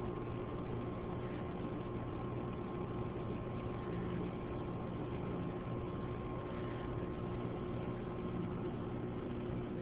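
Steady background hum and hiss that does not change, with a few faint constant tones in it.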